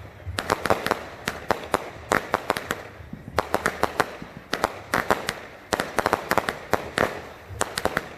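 Fireworks going off: rapid clusters of sharp pops and cracks, one burst after another with short gaps between them.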